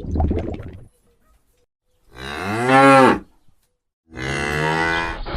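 Cow mooing, two long calls about a second apart. The first rises and then falls in pitch.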